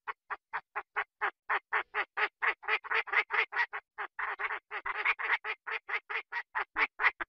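A rapid, regular series of quacking calls, about four a second, growing louder toward the middle and then cutting off abruptly.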